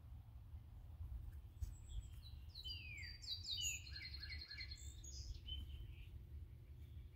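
A songbird singing one phrase of slurred whistled notes and a fast trill, starting about two seconds in and lasting about three and a half seconds, over a faint low steady rumble.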